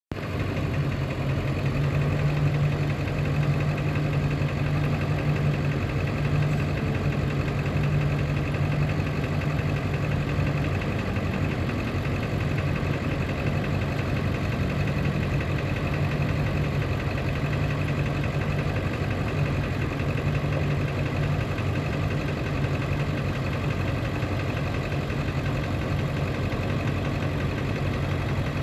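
Engine of a 2000 Ford F450 dually picker truck idling steadily.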